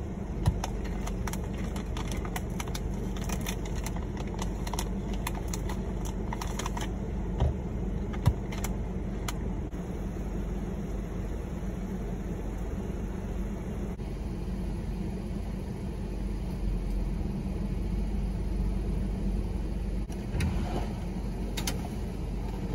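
Car engine idling, heard from inside the cabin as a steady low hum, with scattered light clicks and taps during the first half.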